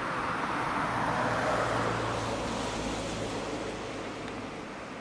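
Matterhorn Gotthard Bahn train running past: a rush of running noise that builds to a peak about a second and a half in and slowly fades, with a low steady hum through the middle.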